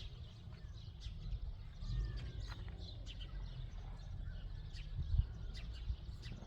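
Small birds chirping in short, repeated high calls, over a steady low rumble.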